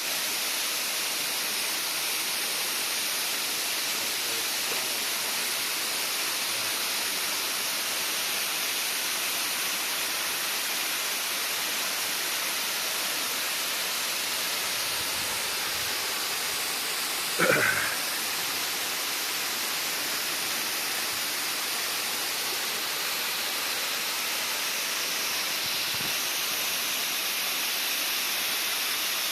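Waterfall: a steady, dense rush of falling water. About two-thirds of the way through, a brief, louder pitched sound stands out once over it.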